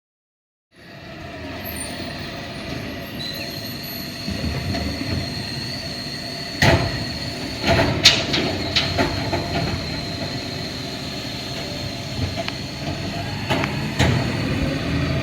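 Garbage truck running on the street, a steady rumble with a steady high whine and several sharp metallic clanks, two near the middle and one near the end.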